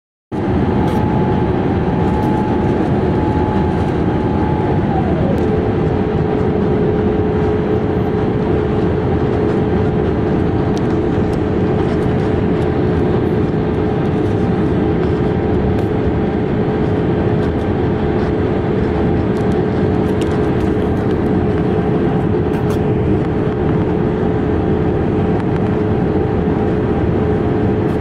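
Cabin noise of a Boeing 787-8 airliner in flight on its way in to land: a steady loud rush of airflow and engines, with a steady whine that drops in pitch about five seconds in and then holds at the lower pitch.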